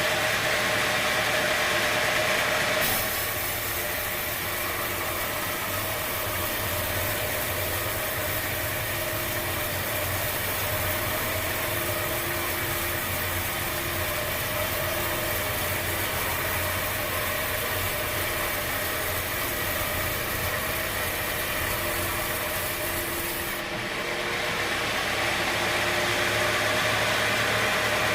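Sawmill machinery running steadily, with a low engine hum and mechanical noise. The sound changes abruptly about three seconds in and again near the end.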